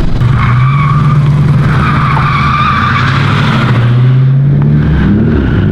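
Drift car on track: engine held at high revs through a slide while the tyres squeal. The engine note sags a little, then climbs again near the end.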